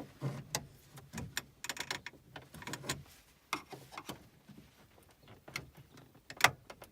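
Flat-bladed screwdriver prying at a 2010 Chevy Cobalt's plastic dash trim piece: scattered plastic clicks, taps and scrapes, with a louder click near the end.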